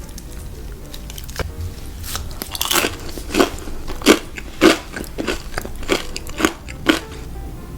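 Close-up chewing of crispy fried food: about ten sharp crunches, roughly two a second, starting about two and a half seconds in.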